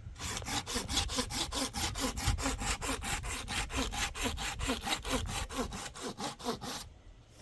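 Hand saw cutting through wood in quick back-and-forth strokes, about four a second, that stop abruptly near the end.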